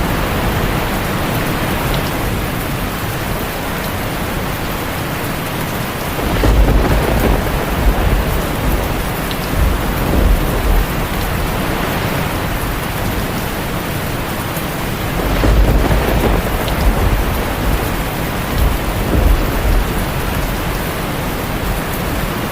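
Heavy rain falling steadily on a tin roof, with deep rumbles of thunder rolling in about six seconds in and again around fifteen seconds in.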